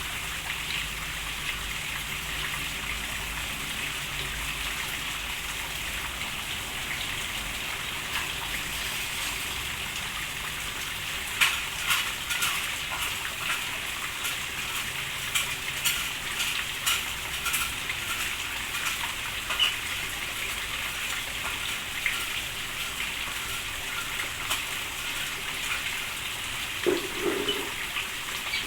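Steady rain hiss, with many sharp drip taps joining in about a third of the way through. A brief low sound near the end.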